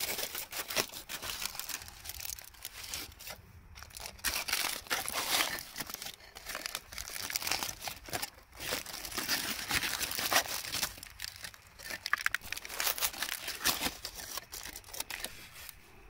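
Irregular crinkling and crumpling, dense crackles coming in uneven bursts, with a brief lull a few seconds in.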